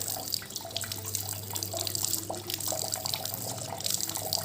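Water running from a tap and splashing and dripping, with a steady low hum underneath.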